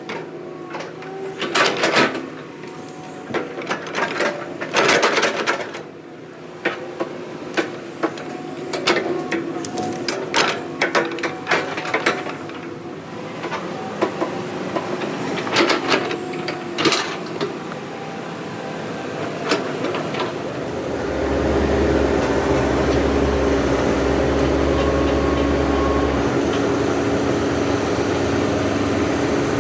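Heavy earthmoving machine's diesel engine running under repeated sharp wooden knocks and cracks. About two-thirds of the way through, the engine rises to a louder, steady, deep running.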